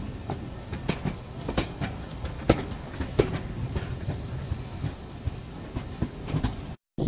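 Railway carriage running along the track: a steady rumble with sharp clicks and knocks of the wheels over the rail joints. It cuts off abruptly near the end.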